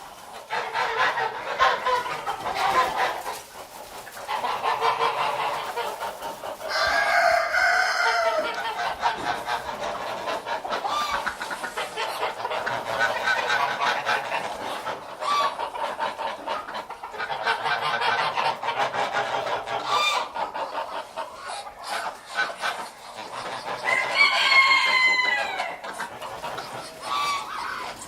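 Chickens clucking continuously, with a rooster crowing twice: about seven seconds in and again near the end.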